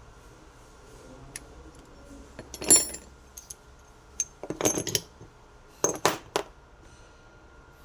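Metal tools and parts clinking and knocking as they are handled, in a series of sharp clanks with short pauses between them.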